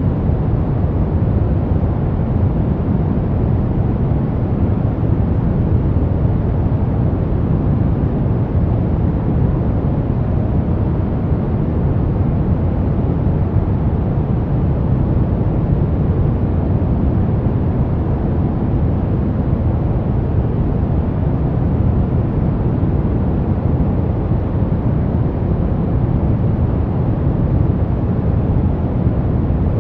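Steady brown noise: an even, deep rumbling hiss weighted to the low end, with no tones or changes.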